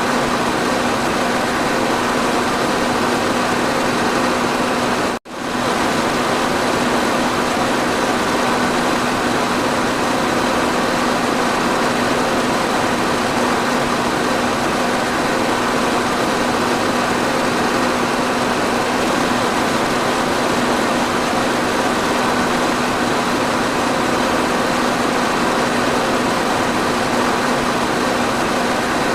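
Electric fan running steadily: an even rushing of air with a constant motor hum underneath. About five seconds in, the sound cuts out for an instant and comes straight back.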